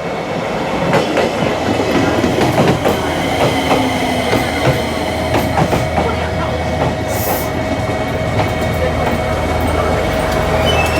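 Train running on rails, its wheels clicking over rail joints, mostly in the first half, under a steady whine and a low rumble that grows stronger about halfway through.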